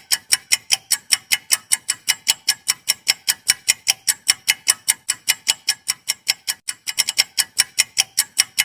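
Clock-tick timer sound effect: sharp, even ticks at about five a second, with a brief stumble of doubled ticks about seven seconds in.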